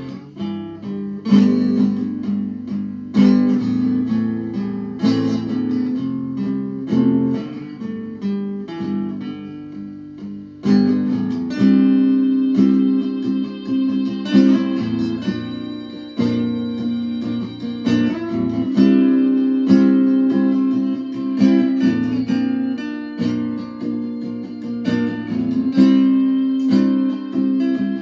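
Acoustic guitar played fingerstyle, plucked notes and chords ringing on.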